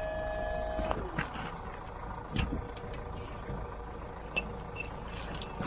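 A recovery truck's lift motor whining steadily over a low engine rumble, then cutting out about a second in with a falling pitch as it winds down, followed by scattered sharp metallic clicks and knocks.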